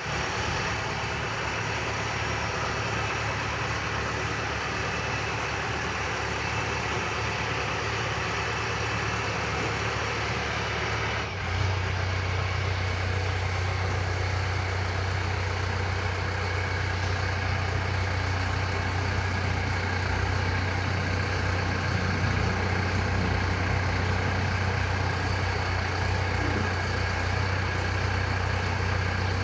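LS Plus 100 tractor's diesel engine idling steadily. About eleven seconds in, its low hum becomes stronger and slightly louder, then holds steady again.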